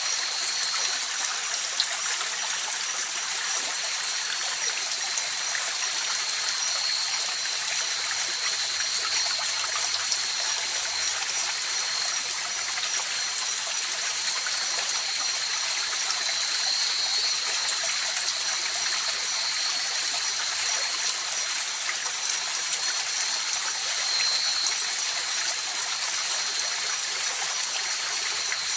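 A river flowing steadily, a continuous rushing and trickling of water, with a steady high-pitched night-insect trill over it.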